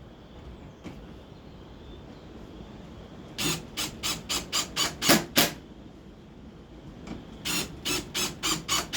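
Two runs of quick rubbing or rasping strokes, about three a second, the first a little over three seconds in and the second near the end, over a faint steady high hum.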